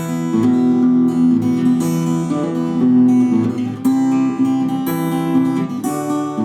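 Acoustic guitar playing chords in an instrumental passage of the song, with no voice.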